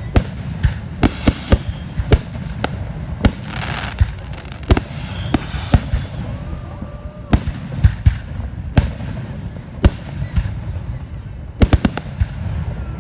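Fireworks going off: a dozen or more sharp bangs at irregular intervals over a steady low rumble, with a stretch of crackling about four seconds in and three bangs in quick succession near the end.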